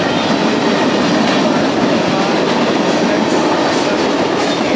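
Freight train cars rolling past at speed: a steady loud rumble and rattle of steel wheels on rail, clicking over the rail joints.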